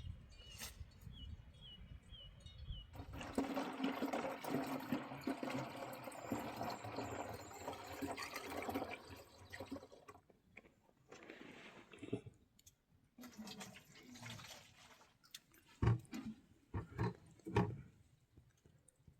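Water running and splashing for several seconds, then scattered knocks and drips.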